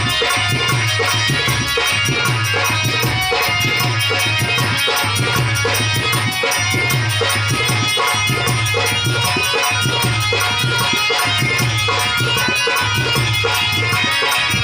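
Harmonium playing a sargam melody over a steady drum accompaniment, with a low drum stroke about once a second.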